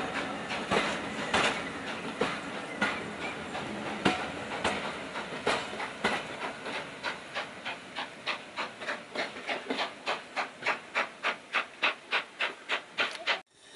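Steam-hauled passenger train pulling out of a station, its coaches rolling past and away with a clattering beat that becomes a regular rhythm and quickens as the train gathers speed; it cuts off suddenly near the end.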